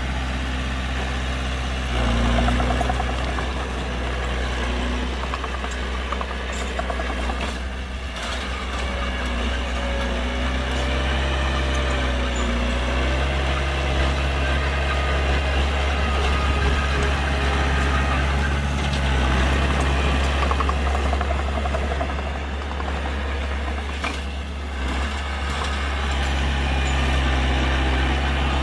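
Heavy diesel engine of a dump truck or bulldozer running steadily at a low, even pitch, getting a little louder and quieter at times.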